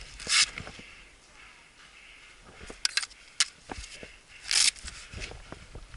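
Scattered airsoft gun shots in semi-auto: a few single sharp snaps around the middle, with short hissing bursts about half a second in and again near the end.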